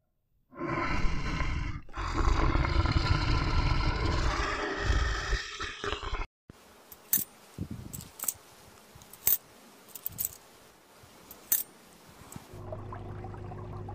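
Brown bear growling: a rough, loud run of about five and a half seconds, broken briefly near two seconds in. It is followed by several faint, sharp clicks.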